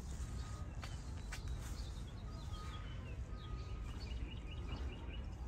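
Small birds chirping over a steady low rumble, with a run of quick, evenly spaced chirps about two-thirds of the way in.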